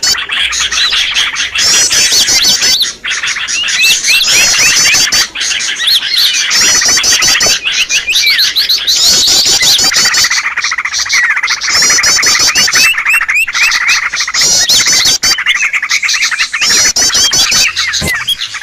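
A dense chorus of small songbirds chirping and trilling, a bird-luring recording made to call in wild small birds. A fast, high trill phrase repeats every one and a half to two seconds over busy lower chirps.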